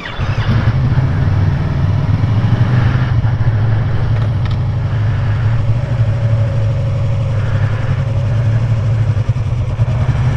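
Yamaha R3's parallel-twin motorcycle engine catching right at the start and then running steadily after a stall.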